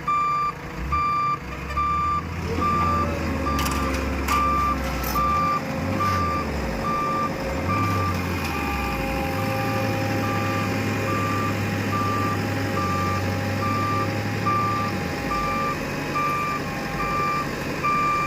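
JCB machine's reversing alarm beeping steadily, a little under two beeps a second, over its diesel engine working under changing load, the engine pitch rising and falling in the middle and then holding steady.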